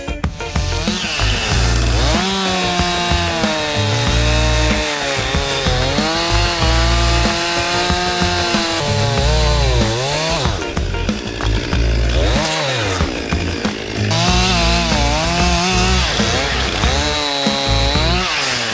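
Chainsaw limbing a downed fir tree. The engine's pitch sags each time the chain bites into a branch and climbs back as it clears, several times over.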